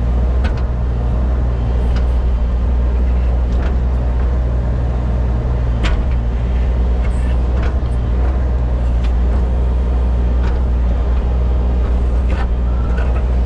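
Diesel engine of a compact excavator running steadily under load with a deep drone while it works a boulder, with a few sharp knocks spread across it.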